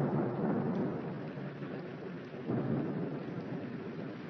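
Thunder rumbling over rain, fading away, then swelling again briefly about two and a half seconds in.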